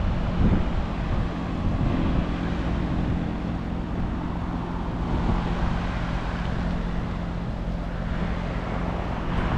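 Amana ALZS4B 4-ton heat pump outdoor unit running: a steady low hum under an even rushing of air.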